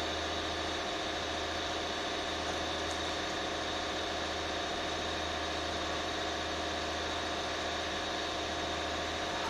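A steady mechanical hum made of several constant tones, holding an even level with no changes.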